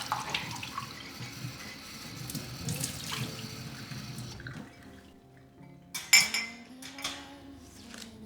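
Tap water running into a sink, with a few light knocks of things being handled under it, shut off about four and a half seconds in. A sharp clatter follows about six seconds in, with a few smaller knocks after it.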